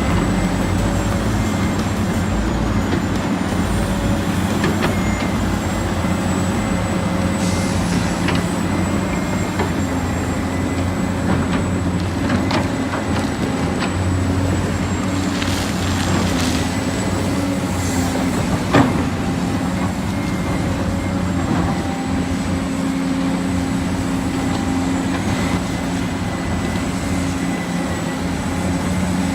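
Radio-controlled model Hino 500 dump truck running: a steady truck-like engine drone with a thin, high whine above it. Scattered small clicks, and one sharp knock about 19 seconds in.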